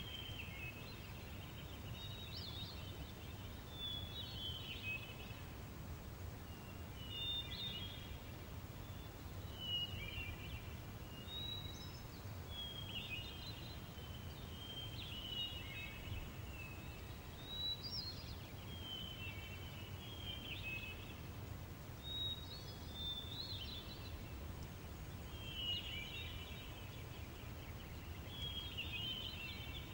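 Outdoor nature ambience: a songbird repeating short chirping phrases about every two seconds over a steady low rumble.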